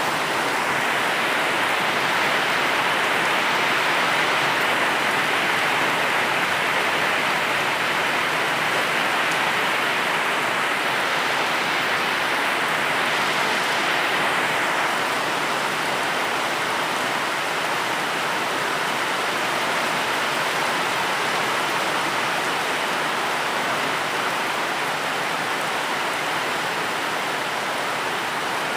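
Steady rain falling, a dense, even hiss of drops with no distinct patter or thunder.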